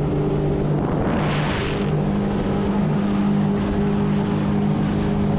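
Sea-Doo jet ski engine running steadily at cruising speed with the rush of water and wind, and a brief hiss about a second in.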